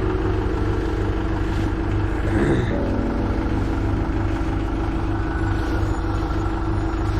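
An engine running steadily at idle with an even low throb. A brief gliding sound cuts across it about two and a half seconds in.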